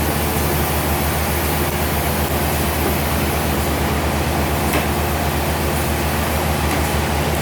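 Sawmill machinery running steadily: a low engine drone under a constant hiss, with a faint click about five seconds in.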